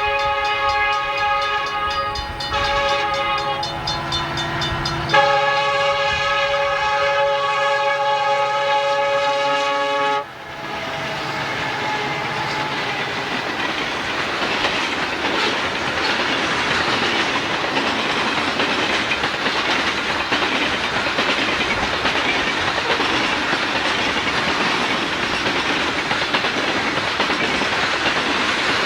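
Diesel freight locomotive's multi-note air horn sounding in long blasts, with a short break about two and a half seconds in and a louder blast from about five seconds in, cutting off sharply about ten seconds in. After that comes the steady noise of the freight train rolling past.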